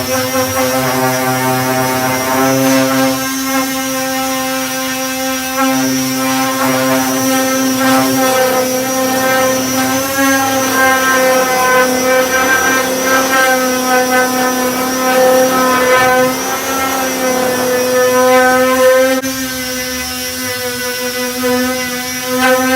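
Electric disc sander with a 240-grit disc running steadily on body filler, a whining motor tone that swells and eases as the load changes, dropping back about nineteen seconds in.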